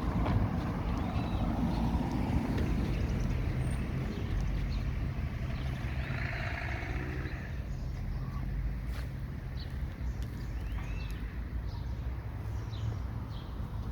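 Street traffic: vehicles driving past with a steady low rumble, loudest in the first few seconds, with a stretch of tyre hiss midway and a few short high chirps in the second half.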